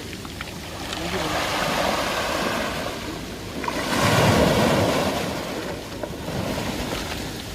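Sea waves washing onto the shore in two swells, the louder surge about four seconds in.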